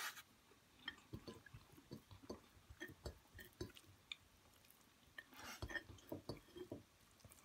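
Near silence with faint eating sounds: scattered small wet clicks and soft chewing of rice and curry eaten by hand, a little busier a little past the middle.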